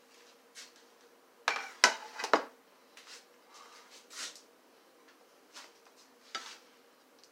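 Serving utensil clinking and scraping against a pan and plate while shrimp are spooned out for serving. A quick cluster of clinks comes about a second and a half in, followed by a few lighter scattered ones.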